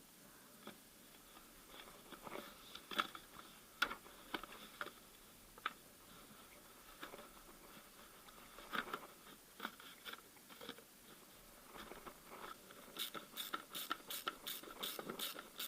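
Light clicks and knocks of hand tools and parts being handled, scattered and irregular, then a quicker run of about eight sharp clicks, roughly three a second, near the end.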